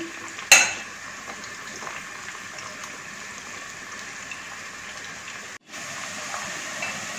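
Chopped okra frying in hot oil in a wok, a steady sizzle. A single sharp click about half a second in, and the sizzle drops out for an instant just before six seconds in.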